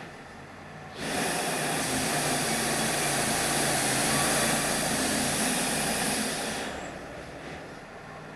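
Wood-Mizer LT35 bandsaw mill's engine running steadily; about a second in, the band blade cuts into a yellow pine log with a loud, even sawing noise that lasts about five seconds, then eases off.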